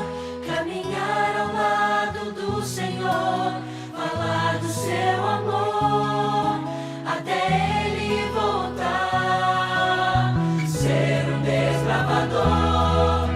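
Background music: a choir singing a slow Christian song over sustained low bass notes.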